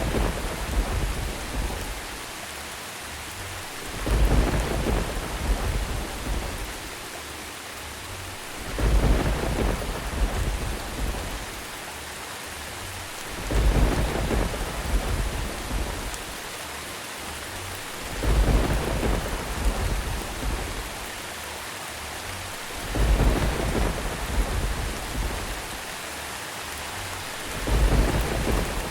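Steady rain with thunder rumbling at even intervals, a new roll swelling up about every four to five seconds and fading over two or three seconds.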